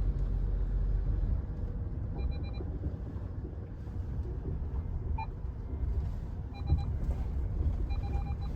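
Steady low rumble of a running vehicle, with a few short high beeps now and then.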